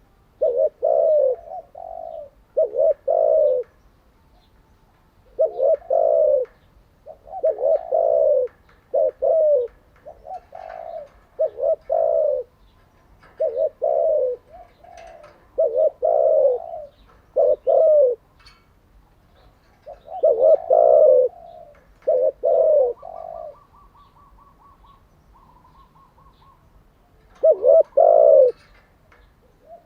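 Spotted dove cooing: phrase after phrase of two or three low coos, with pauses of about a second between phrases and a longer gap near the end.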